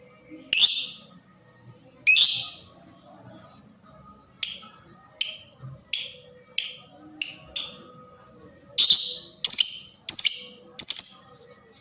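A 'fighter' lovebird calling in sharp, shrill chirps. There are two single calls, then a quick run of about seven shorter chirps, then four longer, louder calls near the end. It is the fast, provoking call used to stir other lovebirds into calling.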